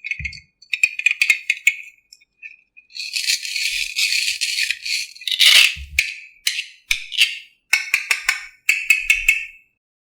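Rattling clatter of small hard objects: runs of quick clicks with a longer hissing rattle in the middle.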